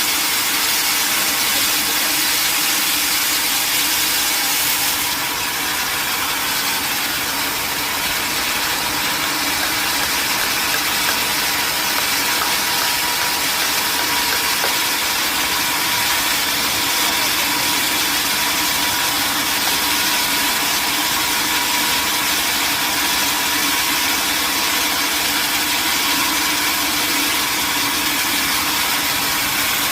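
Sawmill machinery running steadily: a constant mechanical hum and hiss with a steady whine, the high hiss easing slightly about five seconds in.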